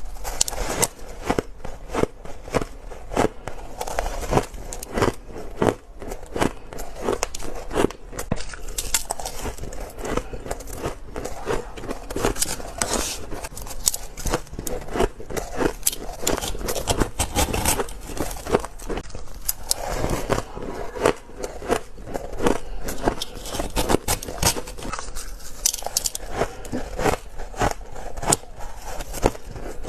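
Close-up crunching of spoonfuls of shaved ice being bitten and chewed: a dense run of crisp, crackling crunches without pause.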